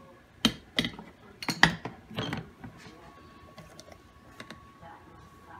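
Several sharp plastic clicks and knocks in the first couple of seconds as the coffee maker's removable filter basket is handled and fitted into place, then only faint handling.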